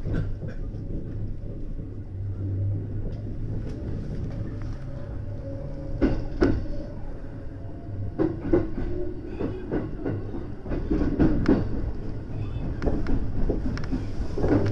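Inside the leading car of a JR West 223-series electric train rolling through station turnouts: a steady low running rumble, with sharp wheel clacks over the points and rail joints that come more often in the second half.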